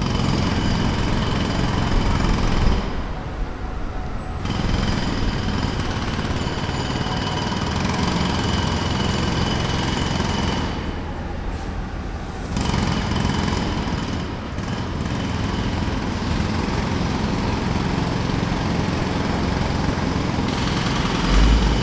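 Jackhammer hammering steadily in long runs, stopping briefly twice, about 3 seconds and 11 seconds in, while a lower rumble carries on through the pauses.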